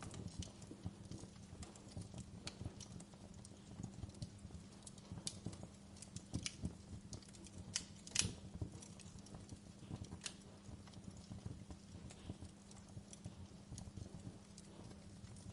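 Wood fire in a fireplace crackling: irregular small snaps and pops, with one louder pop about eight seconds in, over a steady low hum.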